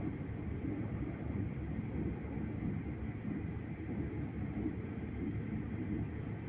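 Steady low rumble of a moving express passenger train, heard from inside the carriage.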